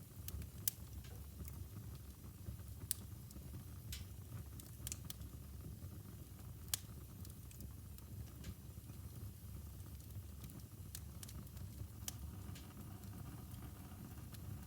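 Wood fire burning in a fireplace: a steady low rumble of the flames with scattered sharp crackles and pops, several standing out, the loudest under a second in.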